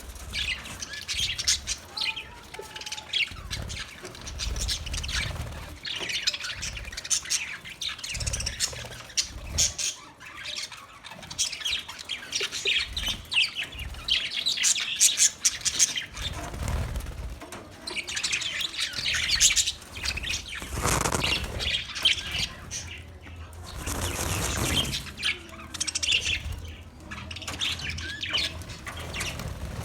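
Budgerigar chattering continuously in quick, high chirps and warbles, with a couple of brief whooshing bursts past the halfway point.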